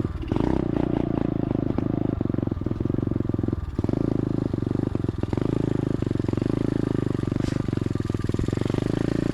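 SSR 125 automatic dirt bike's single-cylinder four-stroke engine running steadily while being ridden, with a few brief dips in the engine note, running pretty good.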